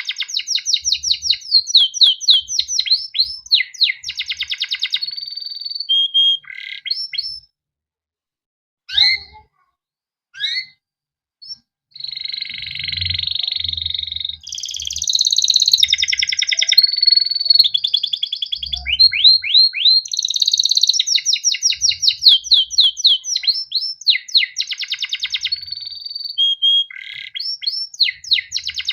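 Male canary singing: fast runs of repeated chirping notes and rolling trills. The song breaks off for a few seconds near the middle, with a few short single calls, then resumes.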